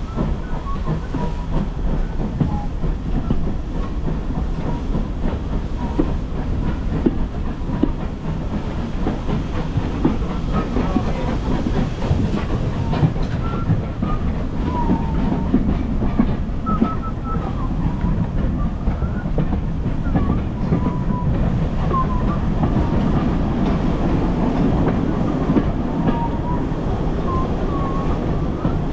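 Heritage railway train running along the track: a steady rumble with wheels clicking over the rails and brief high squeals.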